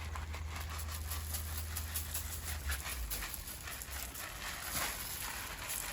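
Dry uncooked rice being poured and scattering onto a deck: a dense, even patter of tiny grain ticks, with a low rumble underneath that fades about halfway through.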